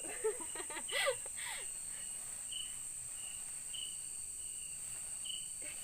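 Night insects in the rainforest: a steady high-pitched insect drone with a short chirp repeating about once or twice a second. A brief human vocal sound comes in the first second or so.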